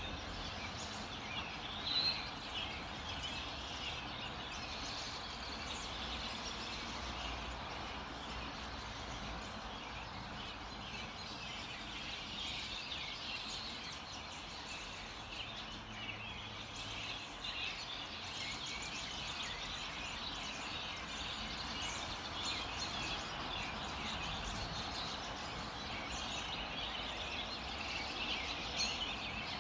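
Morning chorus of many songbirds: a dense, continuous tangle of overlapping chirps and twitters over a steady background hiss, with one louder chirp about two seconds in and another near the end.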